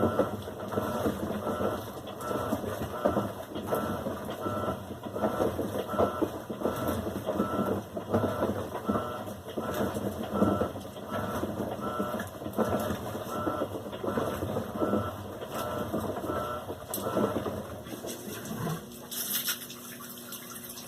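Electrolux LAC16 washing machine running its wash, with churning mechanical noise and a steady series of short high beeps, about one every 0.7 seconds. Near the end the beeps and churning stop and a steady pump hum starts, as the machine drains to move on to rinse.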